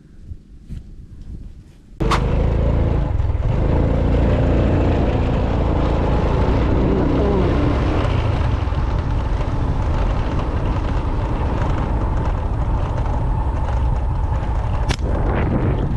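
A loud, steady rumbling noise starts abruptly about two seconds in, with a sharp snap at its onset and another near the end.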